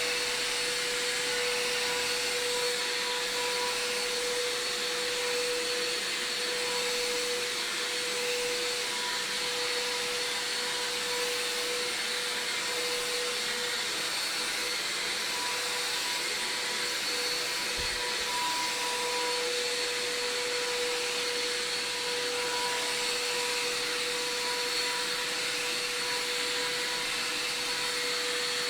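Vacuum cleaner running steadily: an even rush of air with a constant motor whine over it.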